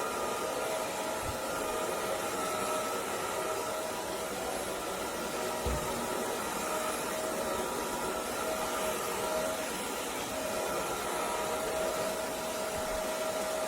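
Roborock Dyad Pro wet-and-dry cordless floor vacuum running steadily in auto mode: an even rush of air with a constant motor whine, and a few soft low knocks.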